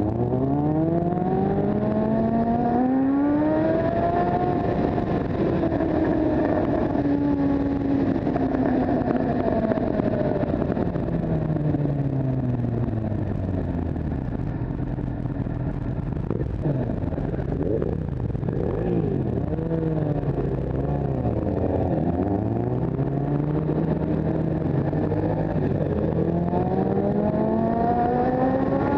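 Motorcycle engine running under way, its pitch climbing over the first few seconds as it accelerates, easing down, then rising and falling again and climbing once more near the end.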